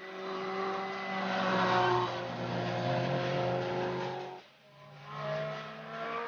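Historic rally car's engine at high revs under acceleration, its pitch held fairly steady, dropping away briefly about four and a half seconds in and then picking up again near the end.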